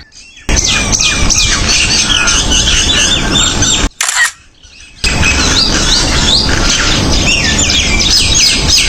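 A flock of common mynas chattering: many overlapping whistles and chirps, loud and dense, cut off briefly twice, once at the start and once for about a second around four seconds in.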